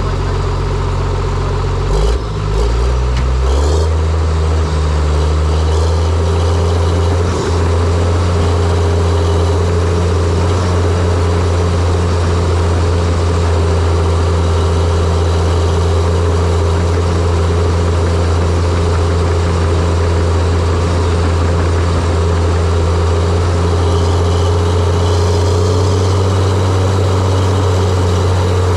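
Diesel engine of a John Deere 700J-II crawler dozer running. Its engine speed rises about two seconds in, then holds a steady, loud note.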